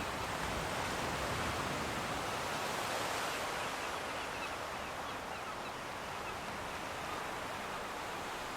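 Sea surf washing steadily, a continuous even rush of waves heard from a distance.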